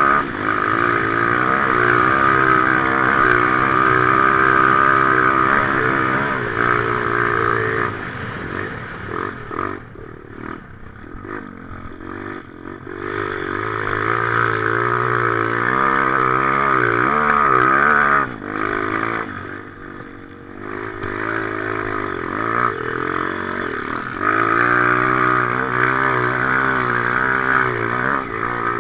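Motocross motorcycle engine revving hard and rising and falling in pitch under throttle, heard from the rider's helmet camera, with two quieter off-throttle stretches about eight to thirteen seconds in and again around eighteen to twenty-one seconds in.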